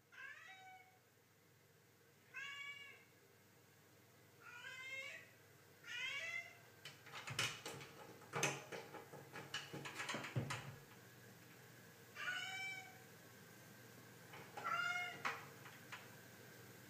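A domestic cat meowing over and over, six short meows about two seconds apart, with a run of sharp knocks and clicks in the middle.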